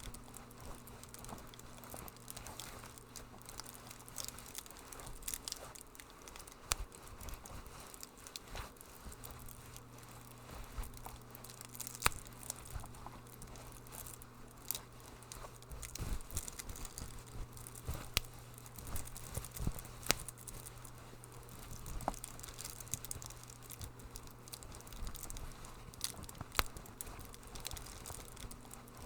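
Wood fire crackling: irregular sharp pops and snaps, a few louder ones, over a soft hiss and a low steady hum.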